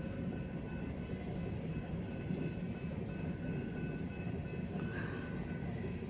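Long train of empty coal hopper cars rolling past: a steady rumble of wheels on rail, with faint steady high-pitched tones above it.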